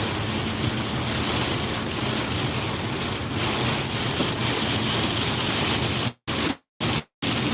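Heavy monsoon rain and wind, a steady rushing noise. The sound cuts out to silence three times, briefly, near the end.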